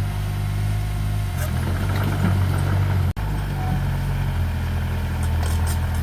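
Diesel engine of heavy earthmoving machinery running steadily at a low pitch, dropping out for an instant about three seconds in. Faint clicking near the end.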